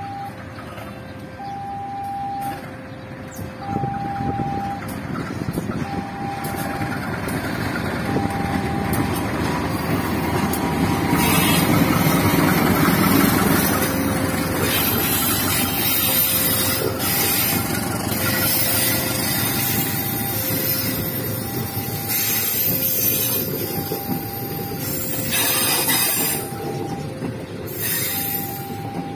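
Level-crossing warning alarm alternating between a high and a low tone about once a second, while a KAI diesel locomotive hauling passenger coaches approaches and passes. The engine noise swells to its loudest about halfway through. In the second half the coaches' wheels clack over the rail joints.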